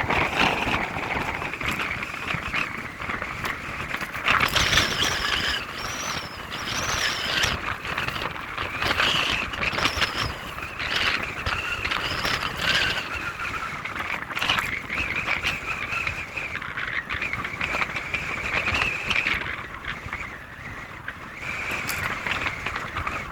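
River water flowing: a continuous rushing, splashing noise that keeps swelling and easing in loudness.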